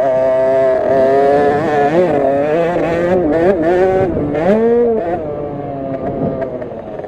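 KTM SX50 50cc two-stroke minibike engine racing, its pitch rising and falling with the throttle. The revs climb sharply about four and a half seconds in, then drop back half a second later.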